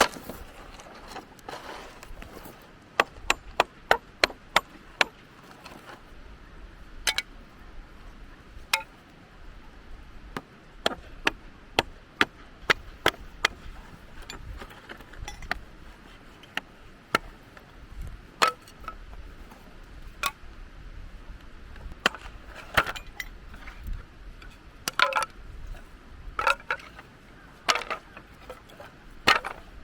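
Firewood being split by hand: a series of sharp wooden knocks and cracks at an irregular pace, often two or three in quick succession.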